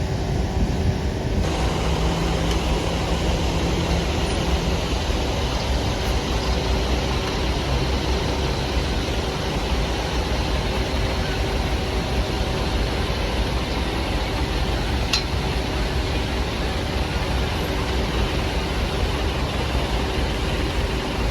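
Engine of a Toyota Dyna truck loaded with oil-palm fruit, running steadily with a constant low rumble and road noise.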